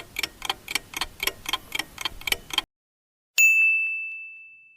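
Clock-style countdown ticking, about four ticks a second, that stops a little past halfway, followed about a second later by a single bell ding that rings out and fades: the timer running out.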